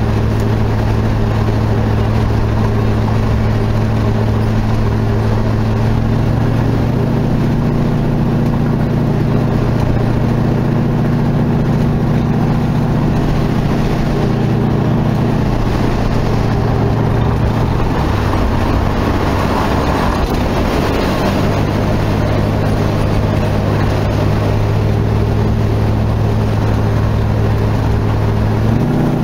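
Dodge Charger's engine and exhaust droning steadily while cruising, with road noise underneath. The engine note rises about six seconds in and falls back a little past the midpoint as the car speeds up and eases off.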